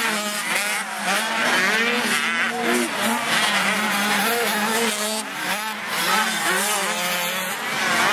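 Several 85cc two-stroke motocross bikes racing, their engines revving up and down over and over as the riders work the throttle and shift, with a steady drone underneath.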